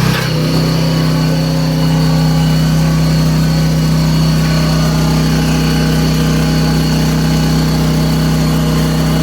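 The engine of a sewer jetter running steadily. Its pitch steps up slightly just after the start and then holds even, with a faint high whine above it.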